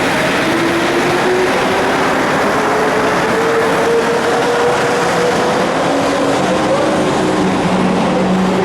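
Mexico City Metro train running: a steady loud rumble with a motor whine that rises in pitch over the first few seconds as the train picks up speed, then holds steady.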